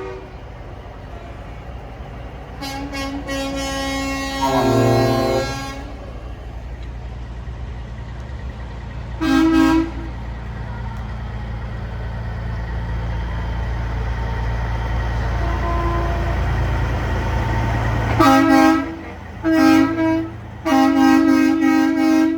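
Semi-truck air horns blasting: a long blast about three seconds in, a short one near ten seconds, and a run of repeated blasts in the last four seconds. Under them a truck engine rumbles steadily, growing louder and then dropping away just before the final blasts.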